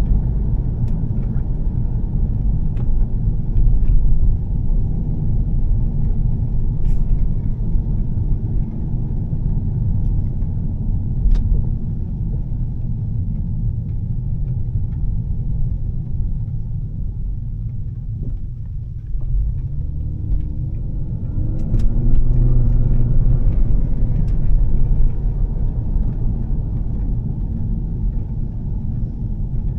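2013 Volvo S60 T6 with a Heico aftermarket exhaust driving, a steady low engine and road rumble. The sound eases off about two-thirds of the way through, then the engine note climbs and grows louder under acceleration.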